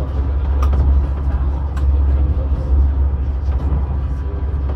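Steady low rumble of a moving train heard from inside the passenger carriage, with a few faint clicks over the running noise.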